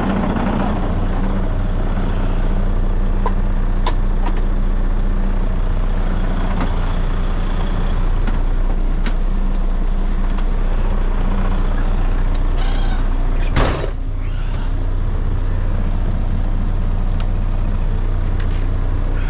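Semi truck's diesel engine idling steadily. About two-thirds of the way through, a short, sharp burst of air hiss cuts across it.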